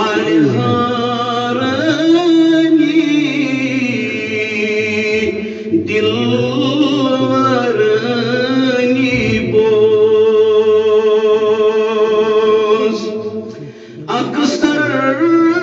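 A man's voice chanting a naat in long, drawn-out melismatic notes, pausing briefly twice.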